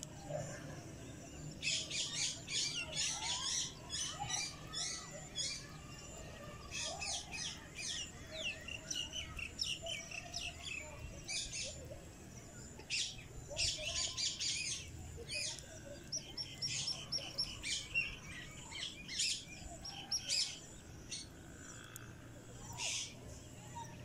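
Birds chirping in quick runs of short, high chirps, several bursts with brief pauses between.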